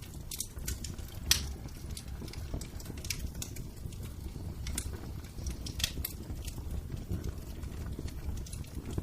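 Wood fire crackling in a fireplace: irregular sharp pops and snaps over a low, steady rumble, with one louder pop about a second in.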